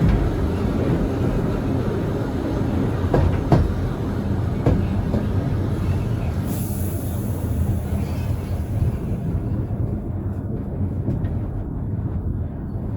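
Vintage steam train running along the track: a steady low rumble of the carriage on the rails, with a few sharp clicks between about three and five seconds in and a brief hiss at about six and a half seconds.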